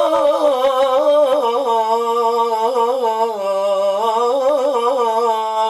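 A singer holding one long wordless note with ornamental turns and wavers in pitch, unaccompanied.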